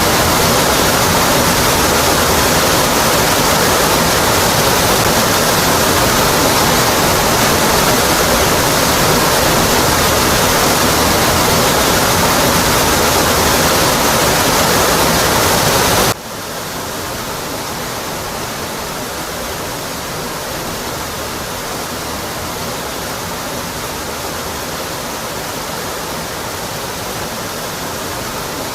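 Waterfall rushing steadily. A little past halfway the rush cuts suddenly to a quieter, softer level and carries on steadily.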